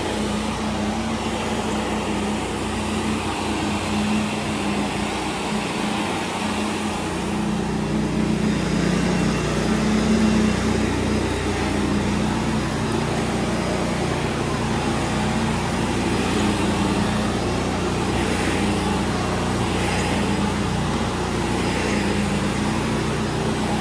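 Vacuum cleaner running steadily on carpet, with a pressure washer's steady drone underneath; a deeper hum joins about seven seconds in.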